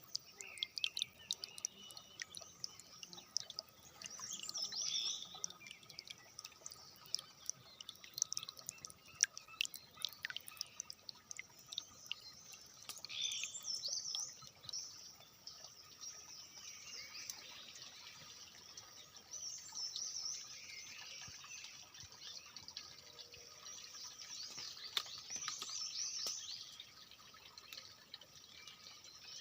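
Several birds chirping and calling in short repeated phrases, with many sharp ticks or drips in the first ten seconds or so.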